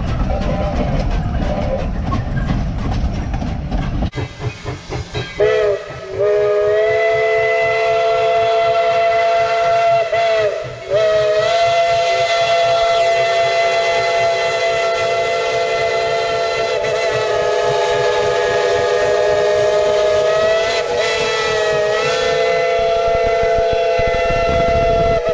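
A chime steam whistle sounds several notes together in one long blast, starting about five seconds in and breaking off briefly near the middle. Before it comes rapid, pulsing train running noise.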